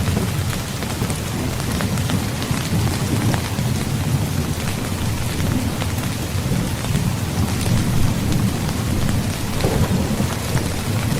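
Steady heavy rain falling, with a continuous low rumble of thunder underneath and scattered sharp drop ticks.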